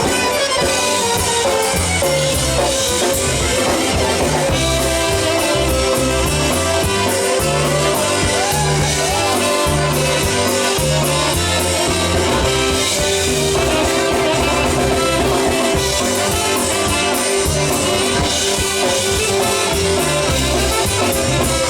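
Live polka band playing an instrumental passage of a slow song, with a steady drum kit and bass under sustained melody notes.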